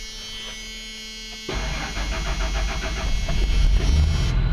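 1999 Ford Econoline van cold-starting in freezing weather. After a low steady hum, the starter cranks the engine, a little slowly, for about two seconds before it catches and runs, louder, near the end.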